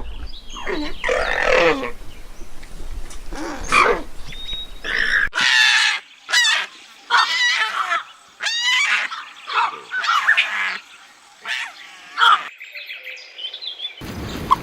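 Animal calls from separate recordings cut together: a run of calls that rise and fall in pitch, then after an abrupt cut about five seconds in, a string of short, quick, high calls, with another cut near the end.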